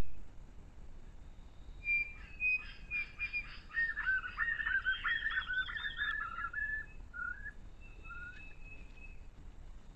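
A bird singing: a run of quick, repeated arching notes that starts about two seconds in, then thins to a few single short notes near the end.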